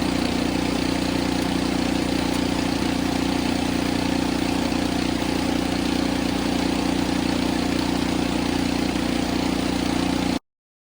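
Ariens snow blower's single-cylinder four-stroke engine running steadily, then the sound cuts off abruptly near the end.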